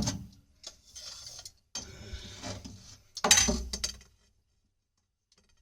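A water pipe and tools being handled and shifted into position: a few short bouts of scraping and rattling with sharp clicks, the loudest about three seconds in.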